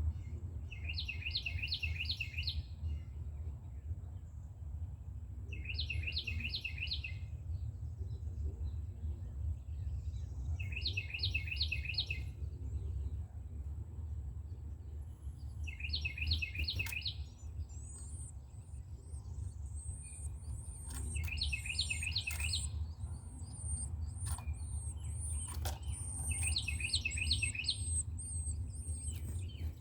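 Carolina wren singing its loud, rolling song: six identical phrases of four or five rapid repeated notes, about every five seconds. A thin, very high chirping starts about two-thirds of the way in, over a steady low rumble.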